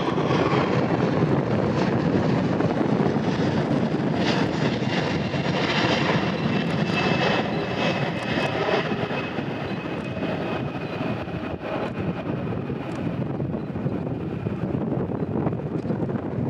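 Four-engine Boeing 747-400F jet flying past on landing approach: a steady rush of jet engine noise with a thin high whine that slowly slides lower in pitch partway through.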